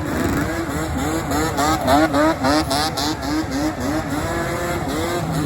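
Dirt bike engine revved in quick repeated throttle blips, its pitch rising and falling about three times a second.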